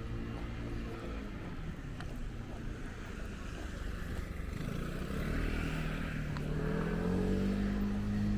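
A motor vehicle's engine running close by. Its pitch sags about a second in, then climbs from about five seconds in as it accelerates.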